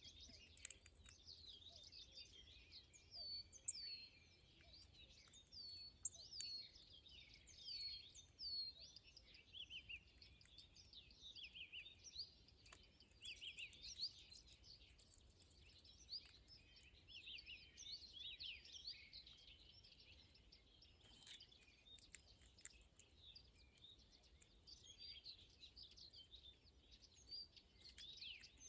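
Small birds chirping and twittering: many short, quick, high calls, several a second, faint, thinning out in the last third.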